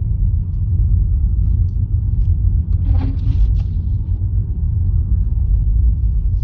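Steady low rumble inside a Honda Fit's cabin, with a brief hiss about three seconds in.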